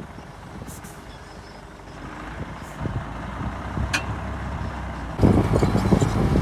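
Heavy diesel earthmoving machinery running. The engine noise builds slowly, a single sharp click comes about four seconds in, and just after five seconds it jumps suddenly much louder into a steady, deep engine hum.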